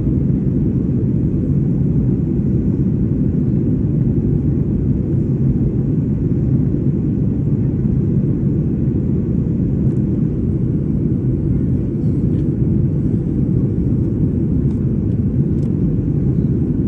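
Airplane engines running with a steady low rumble.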